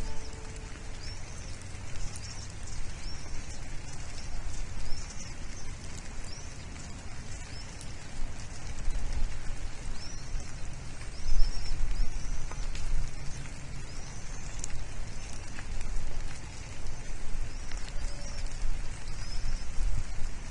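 High, short arched bird chirps repeat irregularly, sometimes several in quick succession, over a steady hiss and low rumble.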